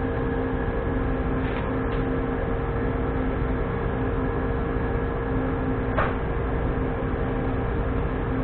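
Steady machine hum with a few held tones, broken by one short sharp click about six seconds in.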